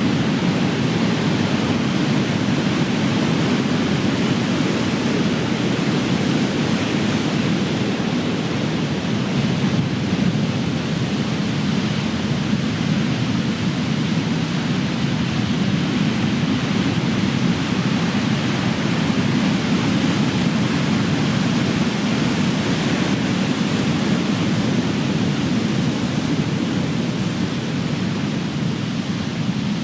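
Ocean surf: big waves breaking and washing in, a continuous deep rush of water with only gentle swells in level and no single crash standing out.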